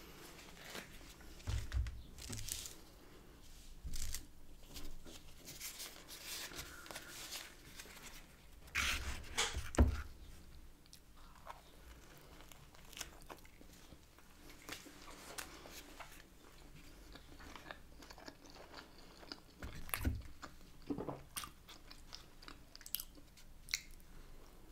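A person chewing and biting pieces of flatbread and grilled chicken: a string of short, wet eating sounds with louder clusters about two, nine and twenty seconds in.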